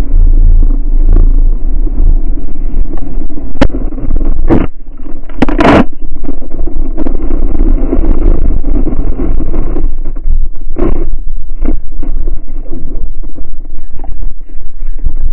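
Loud, steady rumbling noise with several sharp knocks, a few about four to six seconds in and two more about eleven seconds in.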